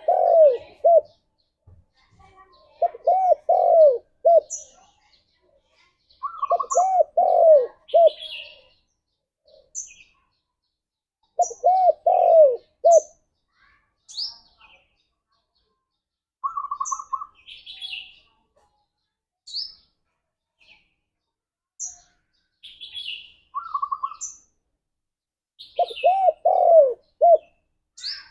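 Spotted dove cooing: short phrases of three or four arched notes, repeated every few seconds with long pauses between, and a few single shorter, higher coos. Short, high chirps are scattered between the phrases.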